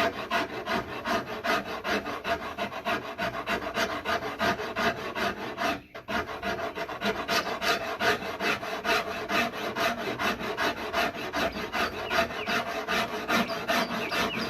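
Hand rasp carving the wooden neck of a neck-through bass in quick, even strokes, about four a second, with a short break about six seconds in.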